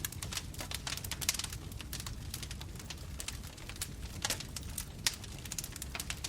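Bonfire burning, with a steady low rumble of flames and many sharp, irregular crackles and pops of burning wood.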